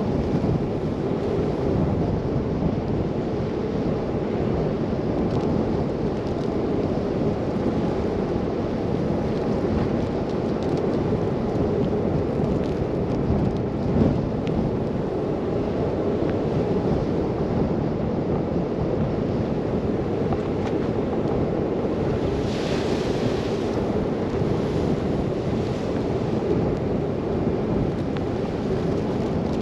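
Steady rumbling noise of wind and driving in a snow blizzard, heard from a moving car. There is a single brief knock about 14 seconds in, and a brighter hiss swells for a second or two about 23 seconds in.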